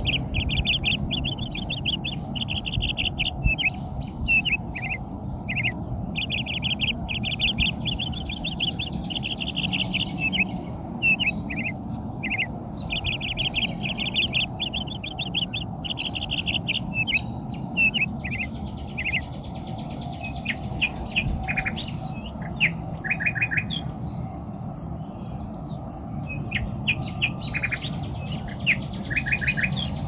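Small birds chirping in quick runs of short, high notes, several overlapping throughout, over a steady low rumble.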